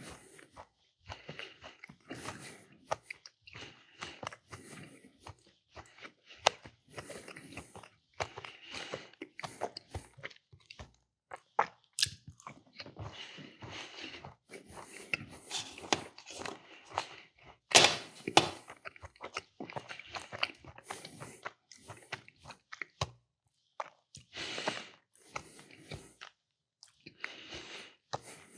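A person chewing and crunching small cookies up close, in irregular bites with sharp crunchy clicks.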